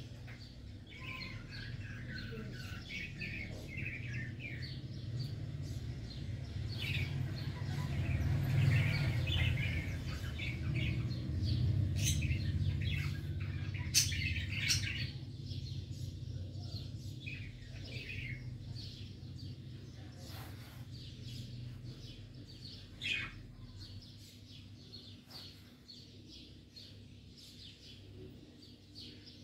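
Small birds chirping and twittering over a steady low rumble, with a few sharp clicks about halfway through.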